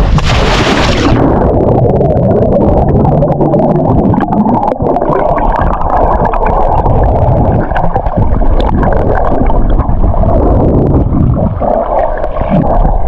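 A splash of entry into the water in the first second, then muffled underwater rushing and bubbling heard through an underwater camera.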